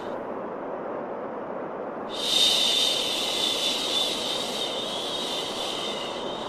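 Steady white noise for soothing a baby. About two seconds in, a long, loud 'shhh' shushing hiss starts and holds to near the end.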